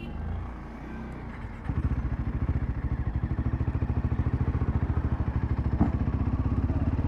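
Royal Enfield Himalayan 450's single-cylinder engine breathing through a Power Rage aftermarket exhaust. It runs quietly at first, then about a second and a half in turns louder into a steady, rapid exhaust beat.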